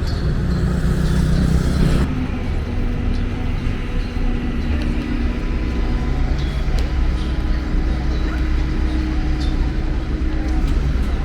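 Road traffic: vehicle engines running and passing in a steady low rumble, with a few faint clicks and knocks.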